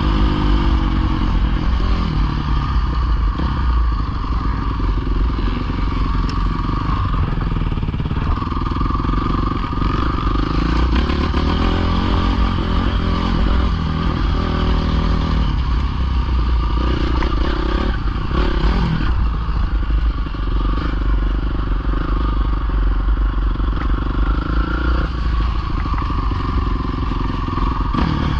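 Dirt bike engine running hard, its revs rising and falling again and again through the gears.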